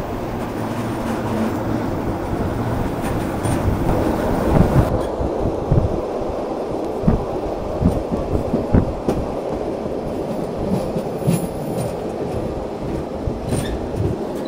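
Rhaetian Railway Bernina line train running, heard from its open-air carriage: a steady rumble of wheels on the rails, with a run of low thumps in the middle.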